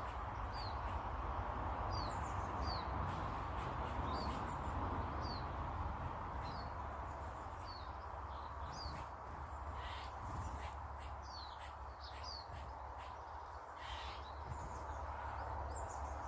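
Small birds chirping: many short, quick chirps, one every half second to a second, over steady background noise and a low rumble.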